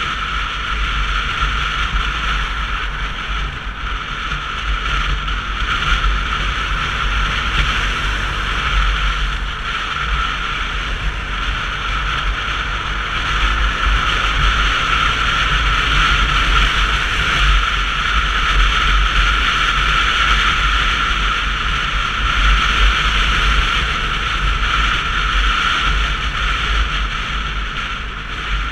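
Steady wind rush over the camera and road noise from a Sinnis Terrain 125cc motorcycle riding along, with a deep rumble underneath.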